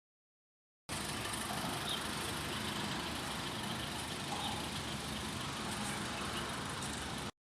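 Alfa Romeo Giulietta Quadrifoglio Verde's 1750 TBI turbocharged four-cylinder petrol engine idling steadily through an aftermarket CSC exhaust. It comes in suddenly about a second in and cuts off abruptly near the end.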